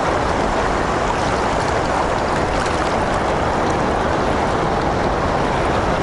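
Steady rushing of fast river current in the tailwater below a lock and dam.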